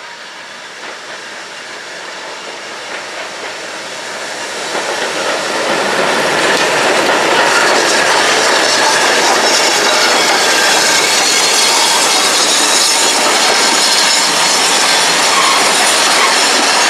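Steam-hauled train moving through the station: wheels clicking over the rail joints with a hiss, growing louder from about four seconds in and then staying loud and steady.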